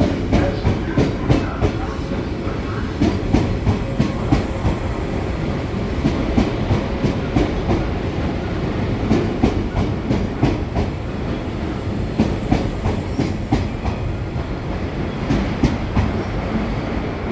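381 series electric train running slowly through station points, its wheels clacking irregularly over rail joints over a low running rumble.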